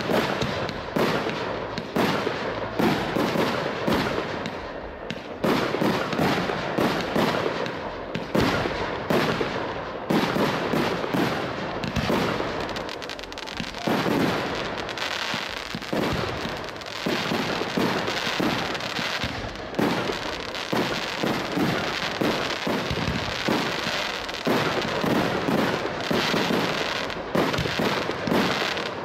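Large fireworks display: aerial shells bursting in quick succession, many sharp bangs one after another without a break.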